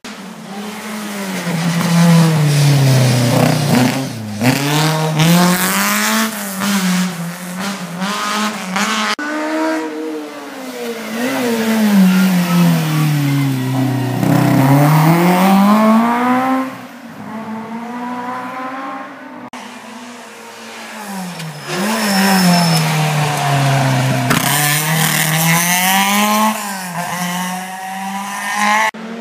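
Rally car engines, each dropping in pitch as the car slows for a corner and then climbing again as it accelerates away, three times in a row. There is a quieter gap between the second and third.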